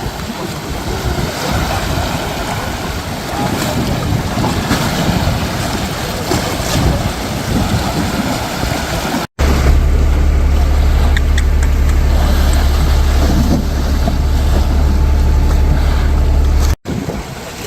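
Wind blowing over a phone microphone, with surf on the beach. The sound cuts out for an instant about nine seconds in and again near the end. In the middle section the wind rumble on the microphone is heavy and steady.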